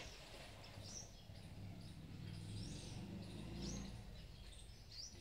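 Small birds chirping, a short high call repeated about once a second, over a low rumble.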